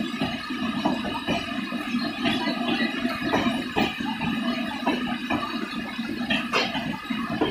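Indian Railways LHB passenger coaches rolling past, their wheels giving a steady high squeal with irregular knocks on the rails, over the hiss of heavy rain.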